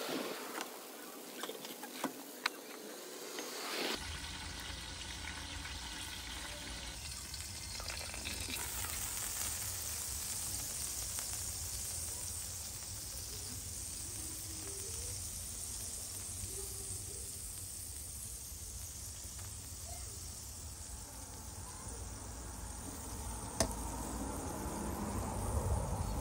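Lamb liver with tomatoes and onions sizzling in oil on a hot steel plate, with a spatula scraping and tapping the metal for the first few seconds. After that a steady sizzle with a low rumble underneath.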